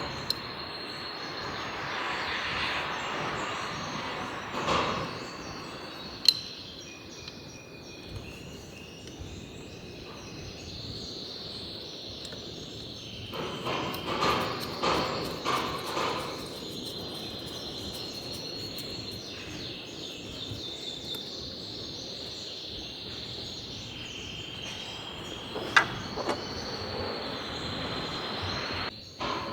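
Insects chirring steadily at a high pitch, broken by a few sharp clicks and a short spell of rustling handling noise about halfway through.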